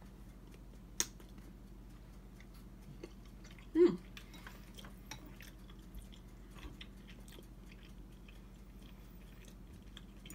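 A person chewing a mouthful of noodles, with many small wet mouth clicks. There is a sharp click about a second in and a short hummed "mm" just before four seconds in. A low steady electrical hum runs underneath.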